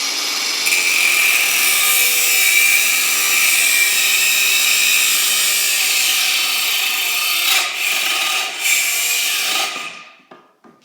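Power tool cutting through a seized exhaust bolt that would not unbolt: a loud, steady high-pitched whine with a hiss, dipping briefly twice, then stopping near the end.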